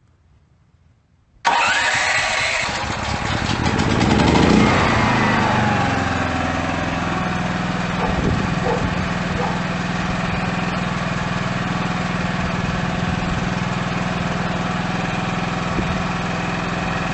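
DuroMax XP13000HX 20 hp dual fuel portable generator engine, running on gasoline, comes in suddenly about a second and a half in. It swings in pitch and surges for a few seconds as it settles, then runs steadily and loudly.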